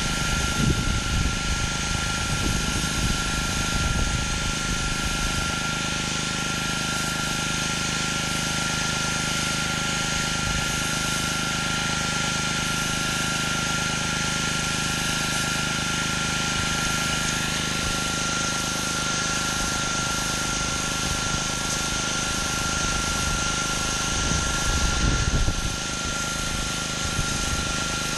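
Pressure washer running steadily while cleaning concrete: an engine drone with a steady high whine and the hiss of spraying water. A few low rumbles come in the first few seconds and again near the end.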